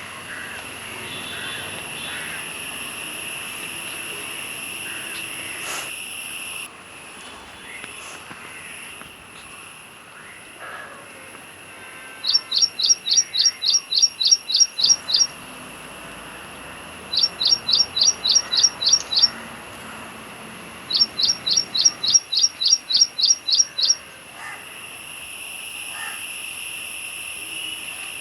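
A bird calling in three runs of rapid, sharp chirps, about four or five a second, each run lasting two to three seconds. A steady high-pitched buzz runs behind them.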